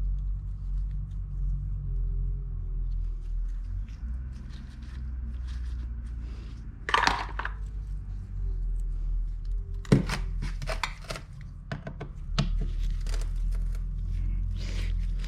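Handling noises of a motorcycle carburettor being taken apart and cleaned: scattered clicks and light knocks of small metal parts and tools, over a steady low hum. There is a short noisy burst about seven seconds in, and sharp clicks about ten seconds in.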